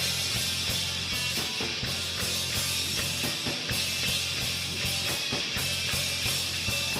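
Rock music with a full drum kit, a steady wash of cymbals and a bass line, without singing.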